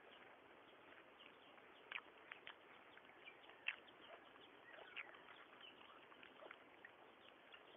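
Near silence: faint outdoor ambience with a few short, faint bird chirps now and then.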